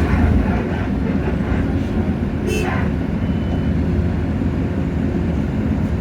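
Hino J08E-VN inline-six diesel engine of a city bus running under way, a steady low rumble heard from inside the cabin, easing slightly about half a second in. About two and a half seconds in, a brief hiss sweeps downward.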